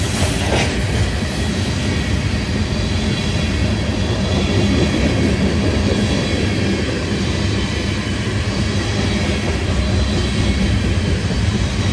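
Covered hopper cars of a unit grain train rolling past: a steady rumble of steel wheels on the rails.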